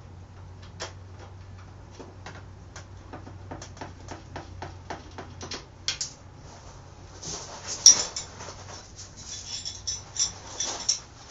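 Metal hand tools and bolts clinking with scattered sharp clicks as a dirt bike is taken apart, turning into busier scraping and clanking of metal parts about seven seconds in.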